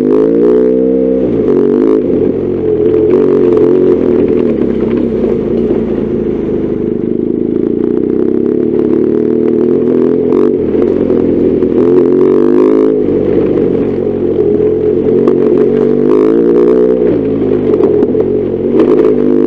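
BMW R1200GS Adventure's boxer-twin engine running under way, its pitch rising and falling several times with throttle and gear changes, with occasional short clicks and clatter.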